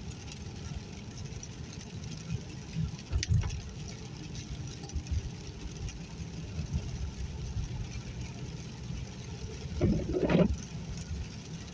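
Car interior road noise while driving: a steady low rumble from the engine and tyres, with a brief knock about three seconds in and a short louder rush of sound about ten seconds in.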